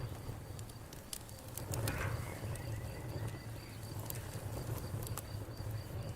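Campfire crackling, with scattered sharp pops over a low rumble of burning wood. Insects chirp in a steady high pulse throughout.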